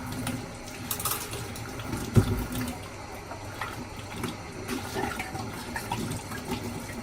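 Water running from a kitchen tap into a sink, with a few light clinks and one sharp knock about two seconds in, the sounds of hand-washing dishes.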